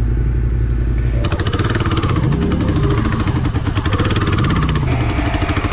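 Adventure motorcycle engine running on a trail ride. About a second in, its note turns rougher and busier, and its pitch rises and falls back twice as the throttle is worked.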